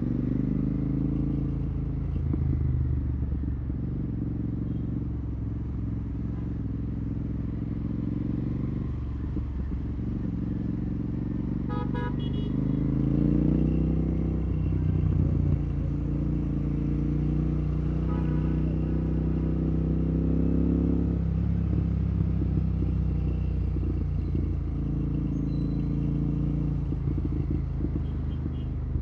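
Royal Enfield Continental GT 650's 648 cc parallel-twin engine running through an open Red Rooster exhaust with no dB killer, rising in pitch as the bike accelerates about twelve seconds in and again up to about twenty-one seconds, then dropping back. A short horn beep sounds about twelve seconds in.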